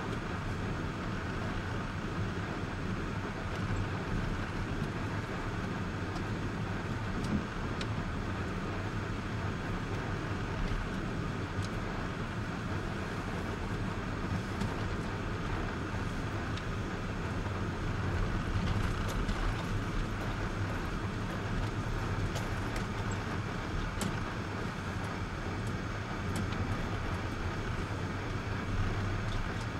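Steady car driving noise, a low engine and road rumble with a few faint ticks.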